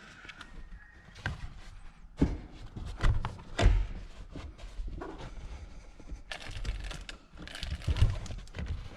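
Irregular knocks, thuds and clicks of tools and car interior trim parts being handled during reassembly, with the heaviest thuds about three and a half seconds in and again about eight seconds in.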